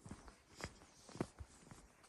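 Quiet footsteps of a person walking at an even pace, a step about every half second.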